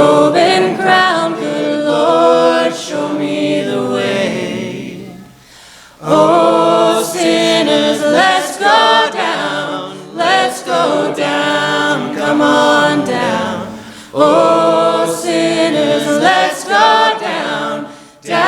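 Worship team singing a cappella in harmony, the sung phrases broken by a short breath-pause about five seconds in.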